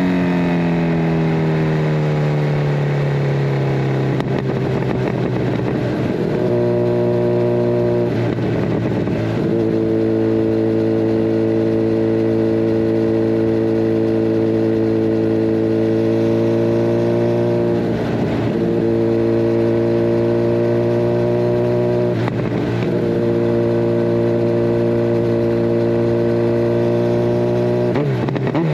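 Kawasaki Ninja 1000SX inline-four running through a de-catted Scorpion Red Power exhaust while riding. The engine note falls over the first few seconds, then holds at steady revs, broken briefly a few times.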